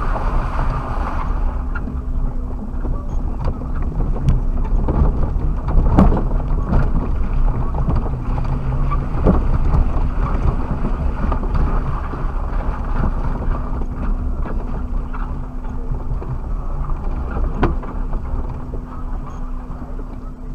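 Suzuki Jimny driving over rough quarry ground, heard from inside the cabin: the engine runs steadily under a constant low hum, with the body and suspension knocking and rattling over bumps, the sharpest knocks about six, nine and seventeen seconds in.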